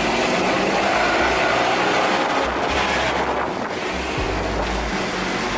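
Steady wind rushing over the microphone, with a patchy low rumble underneath, as during a moving ride.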